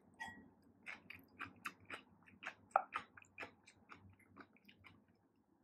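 A person chewing a mouthful of spicy ramen noodles: a string of soft, irregular wet clicks and smacks, about two or three a second.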